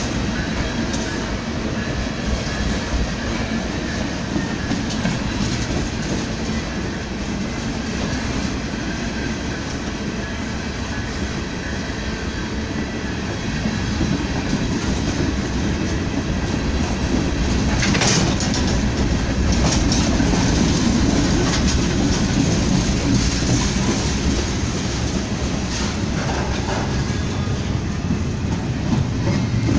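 A train rolling past at trackside, its steel wheels running on the rails in a steady rumble that grows a little louder about halfway through, with one sharp click past the middle.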